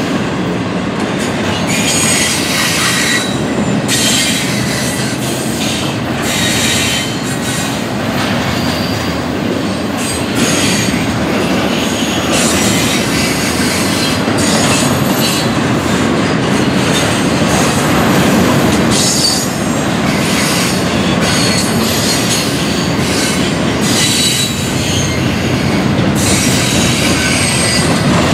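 Double-stack intermodal freight train's well cars rolling past at a grade crossing: a steady rumble of wheels on rail with clacking over the joints and irregular high-pitched wheel squeals coming and going.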